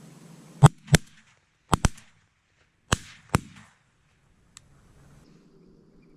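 Six shotgun shots in three quick pairs, the shots of each pair a fraction of a second apart, all within about three seconds, followed by a faint click.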